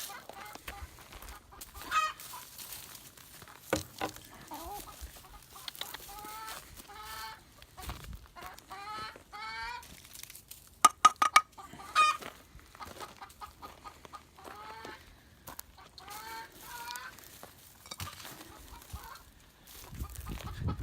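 Backyard hens clucking on and off, with a few sharp knocks or taps a little past the middle.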